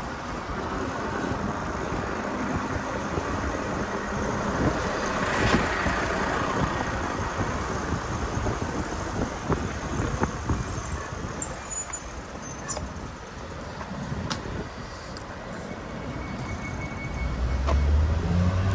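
Steady rumble of wind and road noise heard from a moving bicycle, with traffic going by and a louder swell about five seconds in.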